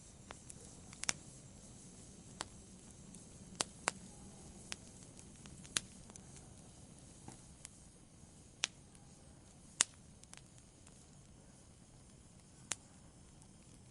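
Wood fire burning: a low steady rush under sharp, irregular pops and crackles of burning wood, some louder than others.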